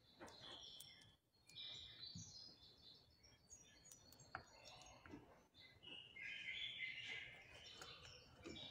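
European goldfinch singing faintly: short scattered twittering chirps, running into a fuller warbling phrase about six seconds in.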